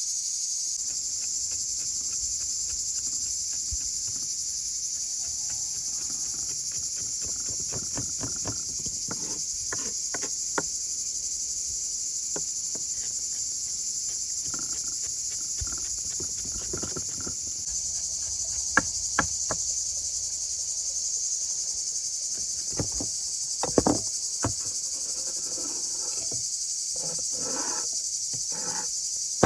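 Steady high-pitched chorus of insects droning without a break, with scattered clicks and knocks, a few sharper ones in the second half.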